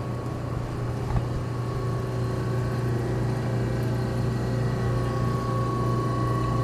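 The sealed compressor of a General Electric CJ-1-C16 antique refrigerator running steadily with a low, even hum, nearly silent, on test after its repair.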